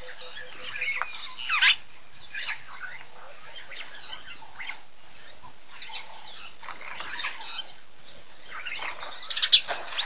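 Small birds chirping: scattered short, high squeaky chirps that sweep downward, a cluster about a second in and the loudest near the end, over a steady hiss.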